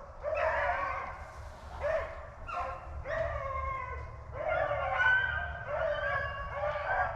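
A pack of rabbit hounds baying on a running rabbit's trail: many overlapping drawn-out cries, one after another without a break.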